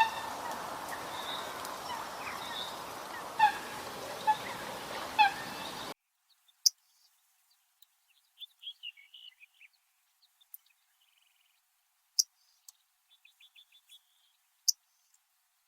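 Bird calls from two recordings. First comes a series of short, pitched call notes with several overtones, repeated irregularly over a steady background hiss. About six seconds in it cuts abruptly to a quiet background with sharp, very high chips and brief runs of twittering.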